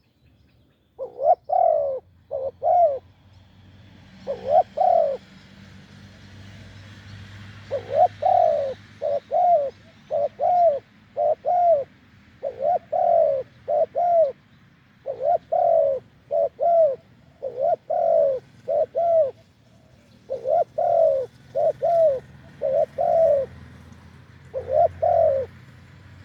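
Spotted dove cooing: a long series of loud, low coos in groups of two or three, with short pauses between groups.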